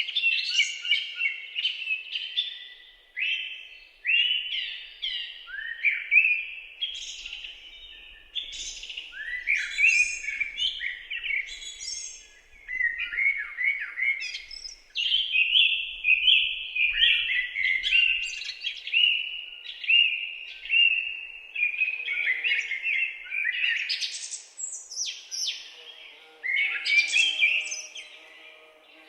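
Several songbirds singing and chirping continuously in the woods: rapid warbled phrases and short chirps, one after another with brief gaps.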